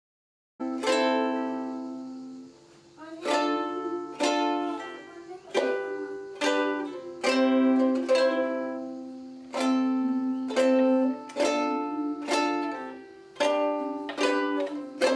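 Ukulele chords strummed slowly, one stroke roughly every second, each chord ringing out and fading before the next; it starts suddenly about half a second in.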